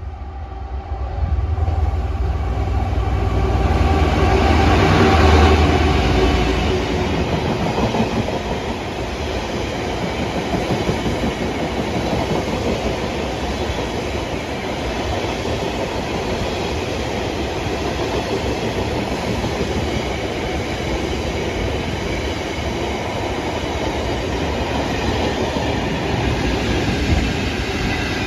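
A heavy diesel freight locomotive passes close by, its engine rumble building to a peak about five seconds in and then dropping away. A long rake of freight wagons follows, rolling past with steady wheel-on-rail clatter.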